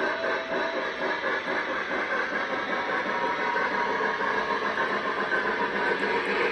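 O-gauge model train running on the layout's track, its wheels clattering over the rails. The clatter has a quick, even rhythm at first and smooths into a steadier run after about a second.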